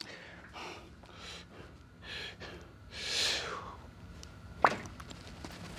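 A weightlifter breathing hard in and out through a set of incline presses, a few gasp-like breaths with the strongest about halfway through. A single sharp click or knock comes a little before the end.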